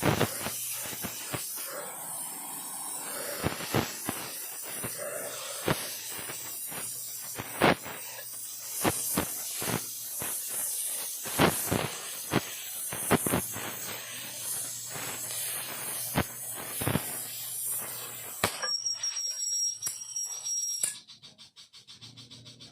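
Oxy-acetylene torch flame hissing steadily, with frequent sharp crackles and pops, while welding thin sheet metal. Near the end a high thin whistle joins for a couple of seconds, then the hiss drops away.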